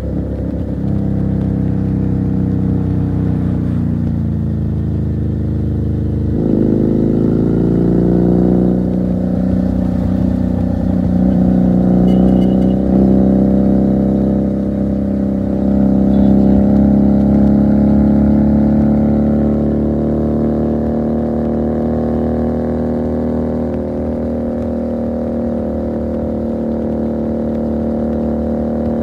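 Motorcycle engine and exhaust running under way, heard from the rider's seat. The engine note falls over the first six seconds, jumps suddenly, then rises slowly and settles into a steady cruise.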